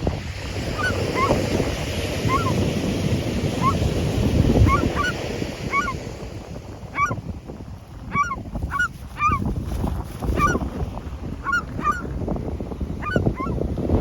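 Gulls calling: many short, repeated squawks from several birds, sparse at first and crowding together in the second half, over a steady low noise.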